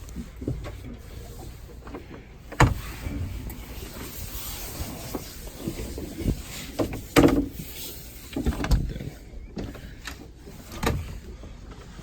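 A series of irregular knocks and bumps, the loudest about two and a half and seven seconds in, over a low steady hum, with a faint hiss in the middle.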